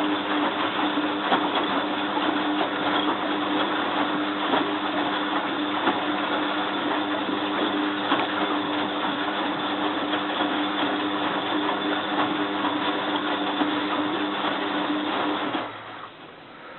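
Bosch WFF2000 washing machine spinning its drum in a short spin burst after the rinse drain, at about 500 rpm: a steady hum with a constant motor tone. It cuts off near the end.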